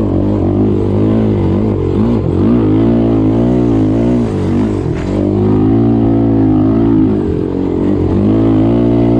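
Off-road vehicle's single-cylinder four-stroke engine running while being ridden, its revs rising and falling over and over with the throttle.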